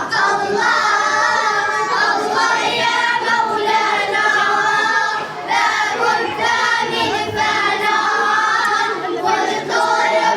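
A group of children singing together, one held phrase after another with short breaks between them.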